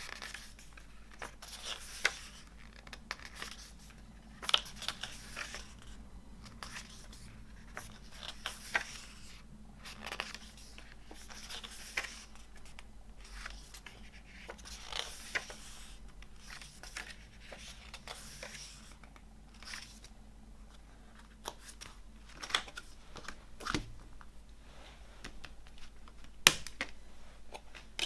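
Hands handling a music box set and its packaging: scattered rustling and crinkling with sharp clicks and taps.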